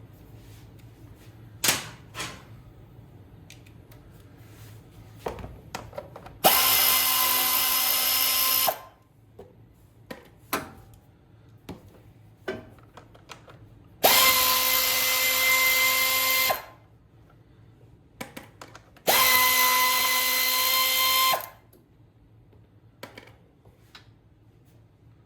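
Cordless drill-driver spinning out the 8 mm bolts that hold the engine's fan housing: three bursts of about two seconds each with a steady motor whine, and small clinks of bolts and socket between them.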